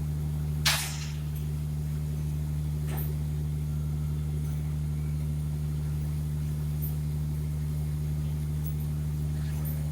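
Heavy diesel engine running steadily at idle-like speed, with one sharp knock a little under a second in and a few faint ticks later.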